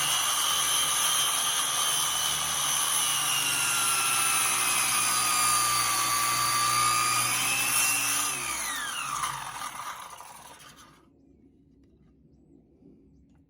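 Electric power saw running, cutting wood, with a steady high whine. About eight seconds in the trigger is released and the motor winds down with a falling whine, stopping about three seconds later.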